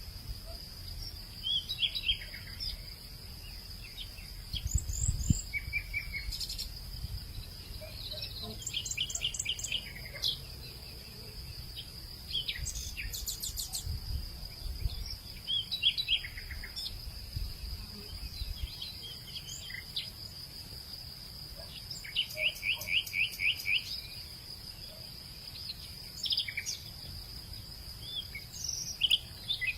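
Several birds chirping and trilling, one giving a quick run of about eight notes about two-thirds of the way through, over a steady high insect drone, with a low rumble underneath.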